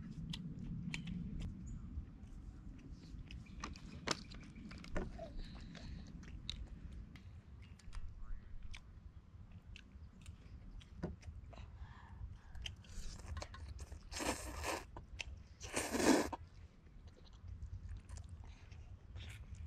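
Close-up eating sounds: a person chewing, with many small clicks and taps scattered throughout, and two short, louder rushes of noise about two-thirds of the way through.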